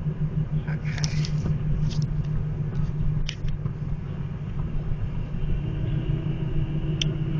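1999 Pontiac Grand Am driving, heard from inside the cabin: a steady low engine and road rumble.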